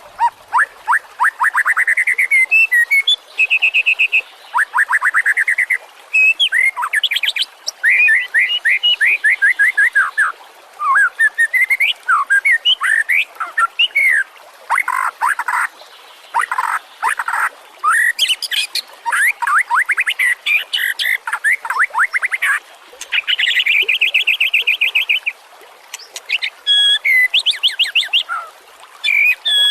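White-rumped shama (murai batu) singing a varied, continuous song. It runs as phrases of rapid repeated sweeping notes and trills, separated by short pauses.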